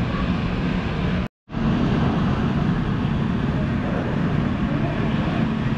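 Steady low rumbling room noise of a busy aquarium gallery, with faint far-off voices; it drops out suddenly for a split second about a second and a half in.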